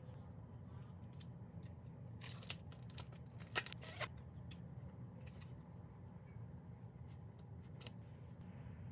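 Packaging being handled and opened: a cluster of sharp clicks and short scraping rustles about two to four seconds in, then a few lighter clicks, over a steady low hum.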